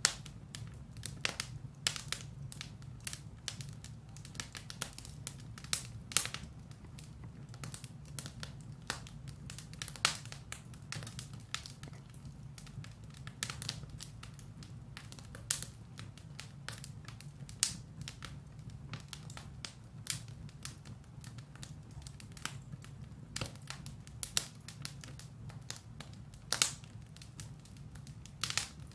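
Firewood burning in a fireplace, crackling with irregular sharp pops and snaps over a steady low rumble.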